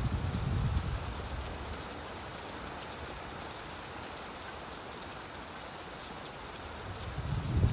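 Steady rain hiss, with a low rumble of thunder dying away in the first second and another building near the end.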